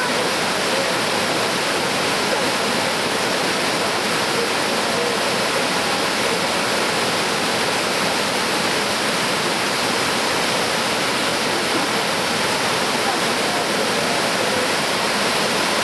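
Yudaki cascade waterfall, water rushing down its rock face in a steady, unbroken roar.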